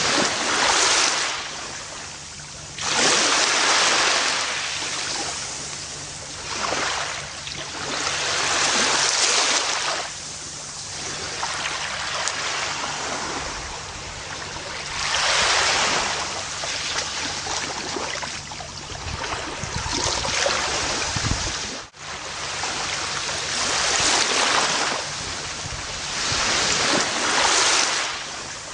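Gentle ocean waves breaking and washing up a beach: surges of surf swell and die away every four to six seconds.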